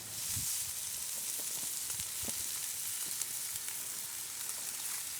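Bacon sizzling in a frying pan: a steady hiss with scattered small crackles and pops.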